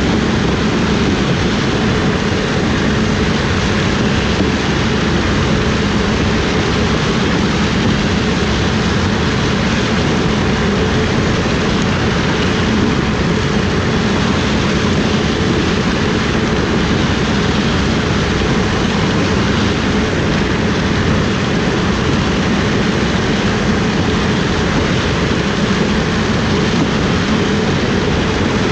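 Corn-harvest machinery running steadily: a loud, continuous engine and drive noise that does not change.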